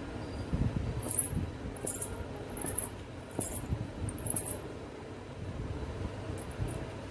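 Four pairs of anklets (payal) worn together jingling in time with footsteps: five short metallic jingles under a second apart, each with a soft thump of the step, then they stop about four and a half seconds in.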